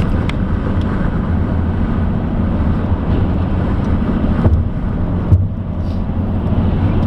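Car interior road and engine noise while driving, a steady low rumble, with two short knocks a little after the middle.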